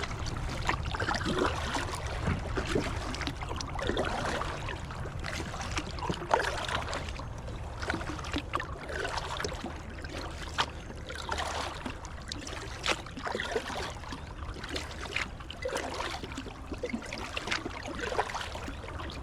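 Kayak paddle strokes splashing and dripping at an irregular pace, with river water gurgling along the hull and a steady low rumble underneath.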